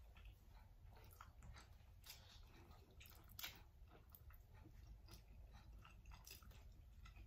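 Faint close-up chewing of instant noodles, with small wet clicks from the mouth and one somewhat louder mouth sound about three and a half seconds in.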